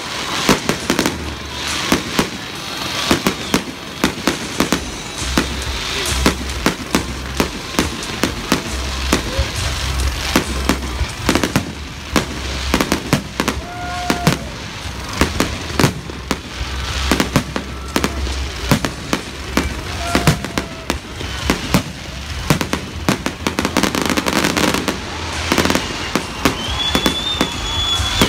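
Aerial fireworks display: rapid, dense bangs of bursting shells, several a second, over a continuous low rumble.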